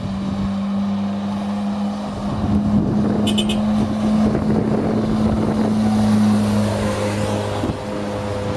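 Hyundai Stellar car engine labouring up a very steep hill under heavy load, holding a steady pitch and growing louder as the car climbs closer, then easing slightly as it draws level near the end.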